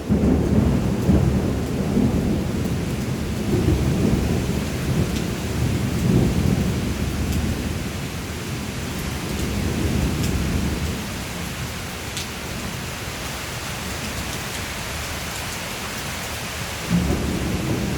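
Steady rain with thunder rumbling low and rolling. The rumble fades about two-thirds of the way through, leaving the rain hiss, and a new rumble starts near the end.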